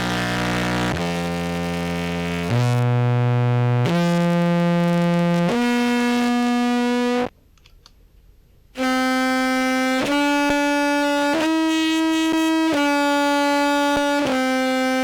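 A full-range sample of sustained, dead-steady notes played through a compressor and effects pedal chain. Five notes step upward in pitch, stop for about a second and a half, then five higher notes rise and fall back, each starting and stopping sharply.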